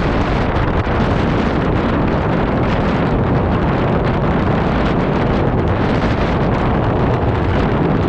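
Strong wind buffeting the microphone on a moving 2018 Honda PCX150 scooter: a loud, steady rushing roar, with the scooter's engine underneath it.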